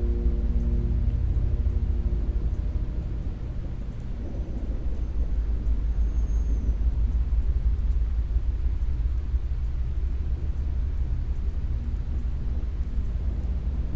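Rolling thunder and steady rain: a deep continuous rumble with a hiss of rainfall over it. The last held notes of the music fade out in the first couple of seconds.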